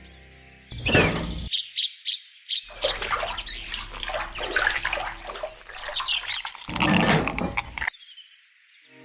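Small birds chirping and tweeting in many quick, high calls. A louder clatter of knocks comes about a second in and again around seven seconds.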